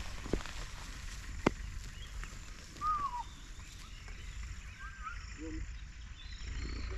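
Rural outdoor ambience with a few short bird chirps and a low rumble, broken by two sharp clicks, the second about a second and a half in being the loudest sound.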